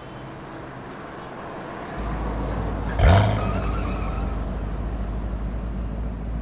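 Chevrolet Camaro driving past close and pulling up. Its engine's low rumble comes in about two seconds in, is loudest about a second later as the car passes, then runs on steadily.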